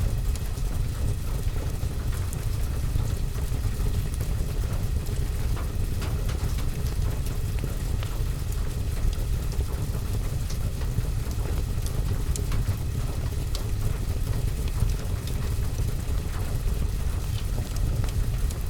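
Steady rain with a deep, even rumble, overlaid with scattered small clicks and pops like drops and fire crackle.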